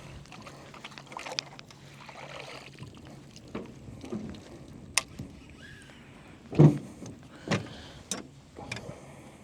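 Scattered knocks and taps of gear against a small boat's hull, over a faint steady low hum. The loudest knock comes about six and a half seconds in.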